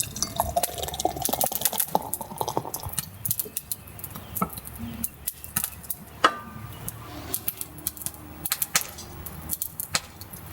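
Liquid pouring into a glass, the pitch rising slowly as it fills over the first few seconds, amid many scattered sharp clicks and crackles.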